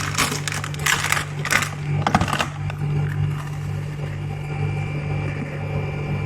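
Rustling, crinkling handling noises for the first two and a half seconds over a steady low hum, after which only the hum goes on.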